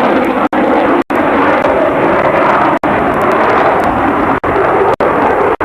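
Loud, steady aircraft engine noise from an airshow flight. It is cut by six brief dropouts where the sound vanishes for an instant, typical of an old videotape recording.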